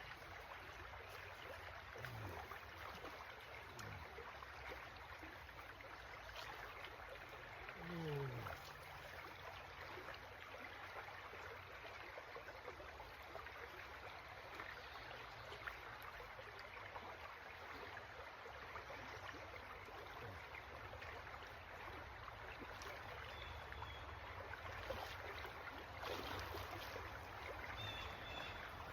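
Creek water running steadily, with a few short low falling sounds, the clearest about eight seconds in.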